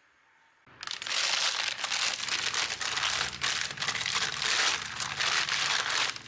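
Plastic packaging crinkling and rustling, starting about a second in, as it is handled and unwrapped by hand.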